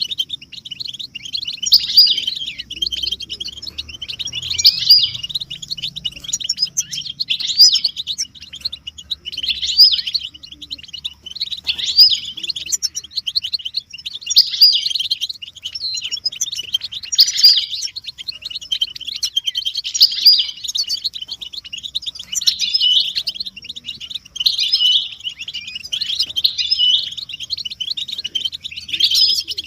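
European goldfinches chattering and twittering, a dense stream of rapid high notes that swells into louder phrases every two to three seconds. It is the group twittering used to stimulate a silent male goldfinch to sing.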